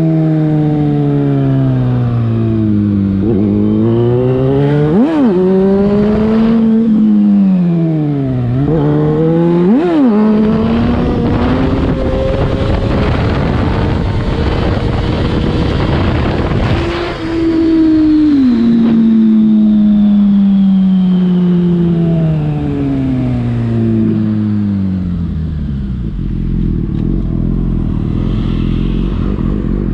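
Yamaha FZ6 inline-four engine through a LeoVince aftermarket exhaust, ridden hard. It first winds down off the throttle, then gives two sharp rev blips about five and ten seconds in. It pulls up through the revs with a rushing noise at speed and a brief gap at a gear change, then slows again and settles to a steady idle near the end.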